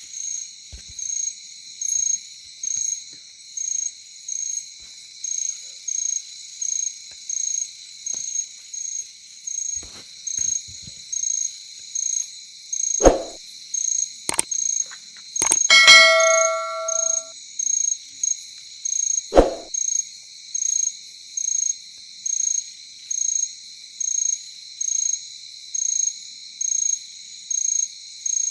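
Night chorus of insects such as crickets: a steady high trilling with a sharper chirp repeating a little more than once a second. In the middle come a few sharp knocks and one brief ringing ding that fades over about a second and a half.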